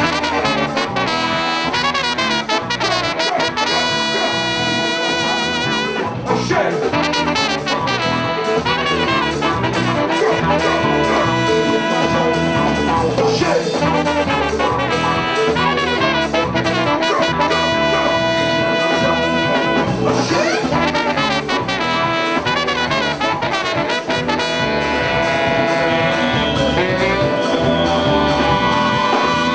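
Live Latin-groove band playing an instrumental passage, horns carrying held and moving lines over steady driving percussion.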